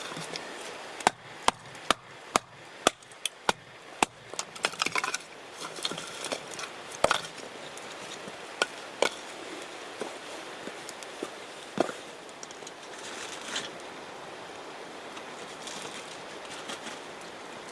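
Sharp wooden knocks of firewood being chopped: a run of about two strikes a second near the start, then more scattered ones, over a steady outdoor hiss.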